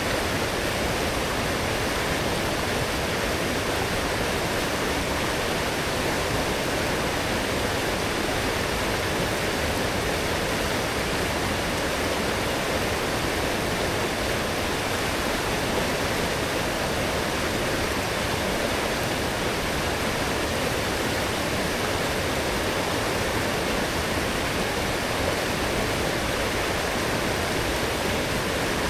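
A strong, fast-flowing forest stream, swollen after heavy rain, rushing steadily.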